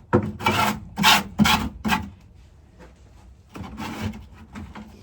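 Paint scraper scraping dried chicken droppings out of a nesting box: several quick scrapes in the first two seconds, then a few quieter ones later on.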